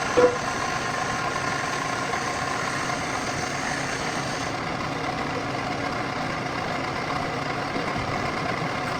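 Metal lathe running steadily with an even mechanical hum and a few faint steady tones, with one short knock just after the start.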